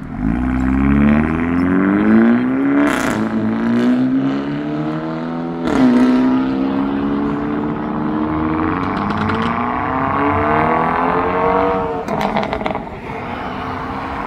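Hyundai Kona N's turbocharged four-cylinder engine accelerating hard away, its note climbing through the gears with drops at about three upshifts, and sharp exhaust cracks at the shifts.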